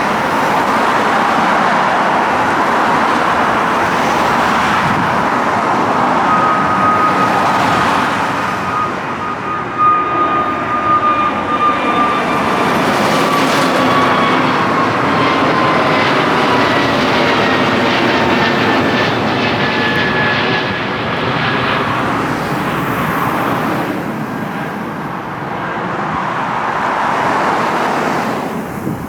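Widebody jet airliner's engines at takeoff power as it climbs out low overhead: a loud, steady jet noise with thin engine whine tones that glide slowly down in pitch as it passes.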